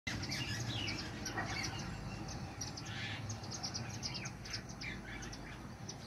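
Birds chirping: many short, high chirps in quick succession, mixed with a few falling call notes, over a low steady background rumble.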